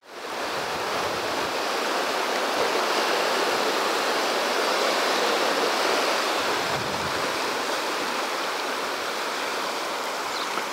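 The South Fork Snake River rushing steadily, an even wash of moving water.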